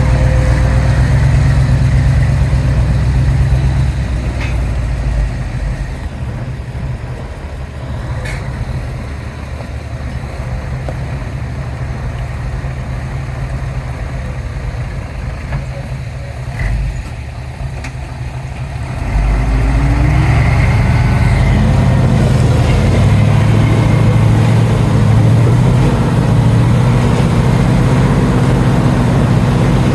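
Diesel engines of heavy earthmoving machinery running under load. The engine sound drops back about four seconds in, then rises again and revs up about two-thirds of the way through.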